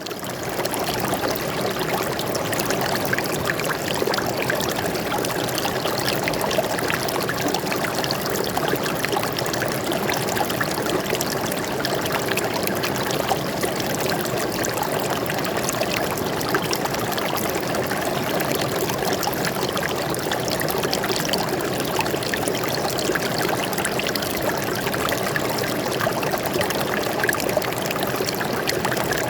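Forest stream flowing steadily over rocks, a continuous rushing and splashing with fine trickling detail.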